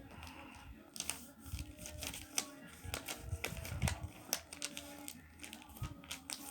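A sheet of paper being handled and folded, a run of short, crisp crackles and taps as the creases are pressed in.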